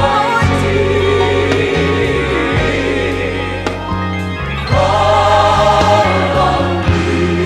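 Gospel choir singing sustained notes with vibrato over a live band's bass and keyboards, the voices swelling in more strongly about five seconds in.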